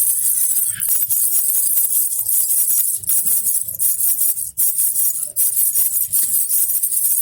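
Baby rattle shaken continuously: a dense, steady jingling rattle, with two brief breaks a little past the middle.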